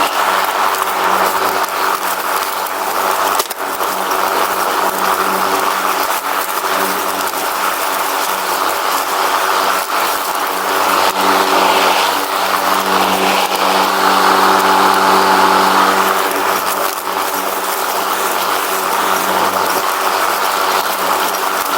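Riding lawn mower engine running steadily under way, getting a little louder for a few seconds in the middle.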